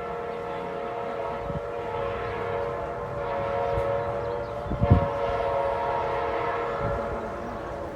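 Amtrak F59PHI diesel locomotive's air horn blowing a long, steady blast that dips briefly about halfway through. A low thump comes about five seconds in.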